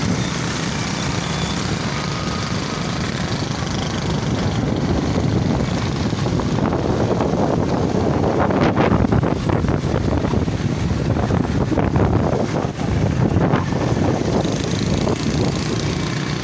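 Motorcycle ride in road traffic: steady engine and road noise with wind buffeting the microphone, a little louder and rougher around the middle.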